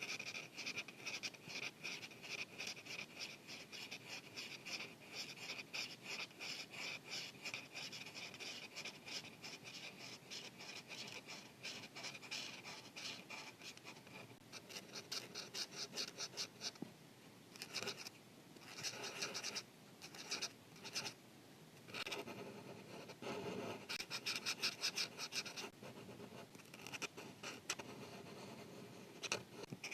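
Marker tip scratching across paper in quick back-and-forth coloring strokes: continuous through the first half, then in short separate bursts with brief pauses between them.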